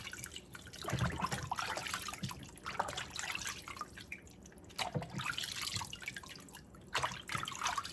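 Kitchen sink water splashing and dripping in uneven spurts as raw chicken pieces are rinsed and handled under the tap.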